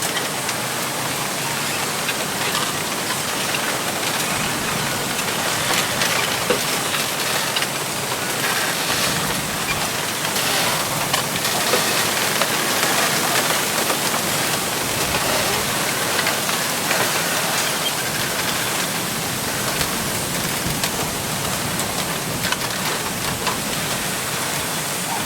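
Wind blowing through a bamboo grove: a steady rushing hiss of rustling leaves, with occasional faint ticks from the stems.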